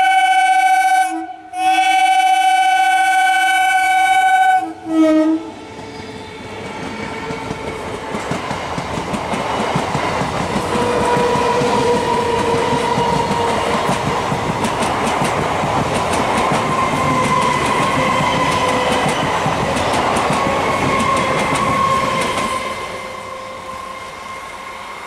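Electric multiple unit (EMU) local train sounding its horn in two long blasts and a short toot as it approaches. It then passes close at speed: a rising rush of wheels and coaches with clickety-clack over rail joints and a faint steady whine, dropping away near the end.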